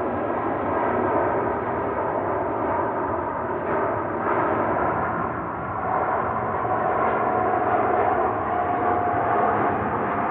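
Airbus A350-900's Rolls-Royce Trent XWB jet engines at takeoff thrust: a steady jet noise, with a steady whine coming in about six seconds in.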